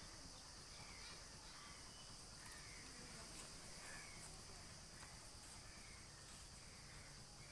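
Near silence, with faint short bird calls about once a second over a steady high hiss.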